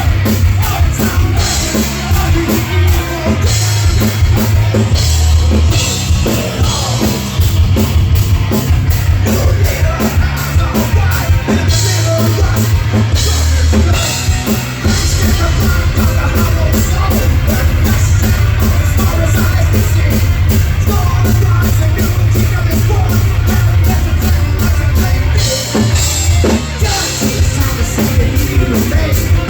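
Live rock band playing loud, with drums, bass and guitars; cymbal crashes recur, and about halfway through the kick drum settles into a fast, steady pulse.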